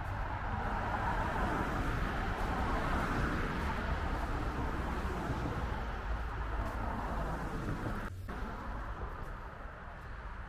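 Steady city street traffic noise from passing cars, easing a little near the end.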